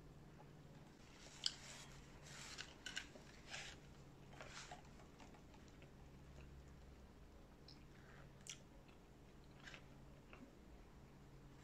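Close-miked mouth sounds of eating: chewing with sharp wet clicks and smacks. They are bunched in the first five seconds and come more sparsely after that.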